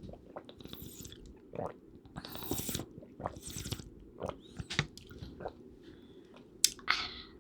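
Close-miked eating sounds: chewing and biting with wet mouth noises, irregular and uneven in loudness, with longer hissing bursts about two and three and a half seconds in and a sharp click near the end.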